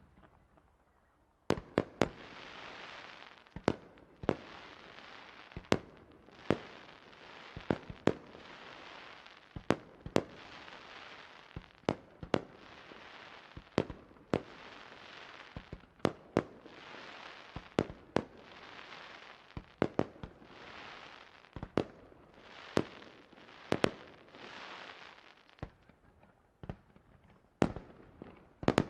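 Aerial fireworks shells bursting in quick succession, a sharp bang every half second to a second, with a crackling hiss that swells and fades between the bangs.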